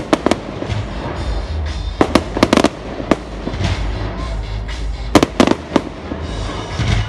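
Fireworks display: aerial shells bursting in clusters of several sharp bangs, about every two to three seconds.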